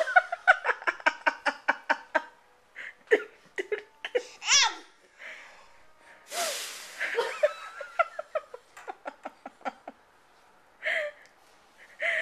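Baby laughing in quick runs of giggles. About six seconds in, a short puff of blown air is followed by a second run of laughter. A high, wavering squeal comes near the middle.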